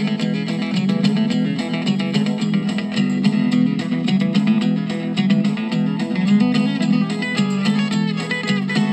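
Instrumental break in a live country song: guitars playing, with a quick run of picked notes over steady strummed chords.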